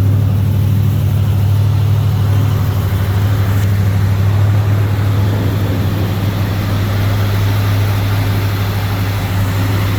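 Oldsmobile 455 Rocket V8 idling steadily through its full dual exhaust.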